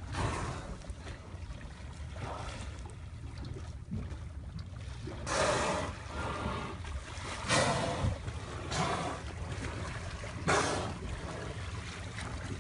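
Water sloshing and splashing around a boat in about half a dozen separate rushes, the biggest a little after halfway and near the end, over a steady low rumble.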